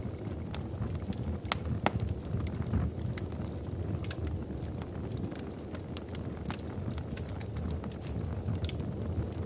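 Wood fire crackling in a fireplace: irregular sharp pops and snaps over a steady low rumble of the flames, with two louder pops about one and a half and two seconds in.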